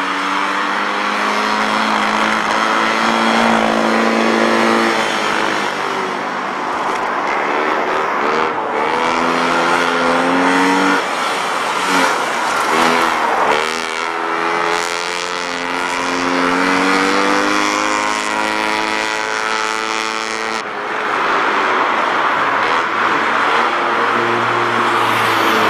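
Honda N360's small air-cooled two-cylinder engine revving hard during a gymkhana run. Its pitch climbs through the revs, drops back several times as the driver lifts off for the turns, and rises again.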